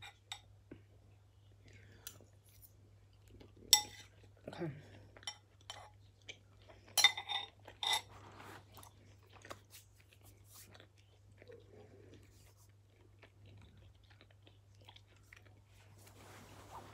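A person's mouth sounds: chewing and breathing, with a few short, louder mouth noises, the loudest a cluster about seven to eight seconds in.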